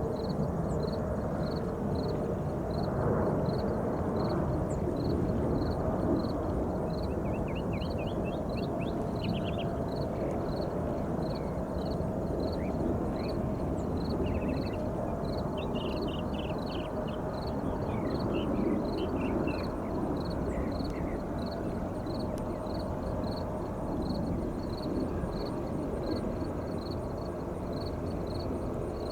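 Steady distant rumble of jet traffic at a large airport with a faint hum, while small birds twitter in short bursts and a high chirp repeats about once a second.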